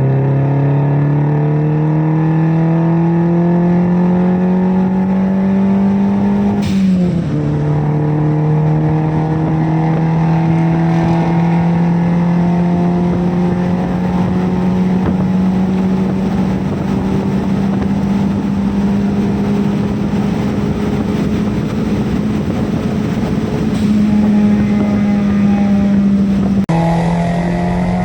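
Daihatsu Copen's small turbocharged engine pulling at full throttle. Its pitch climbs, drops with an upshift about seven seconds in, then rises slowly and steadily in the higher gear as the car nears top speed.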